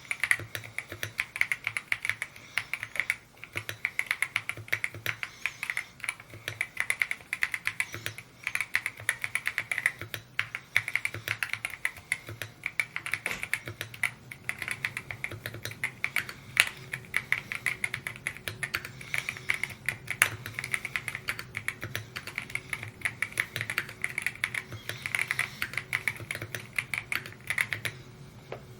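Continuous fast typing on a Mode Encore 2 custom mechanical keyboard: a steady run of rapid keystroke clacks, broken by a few short pauses.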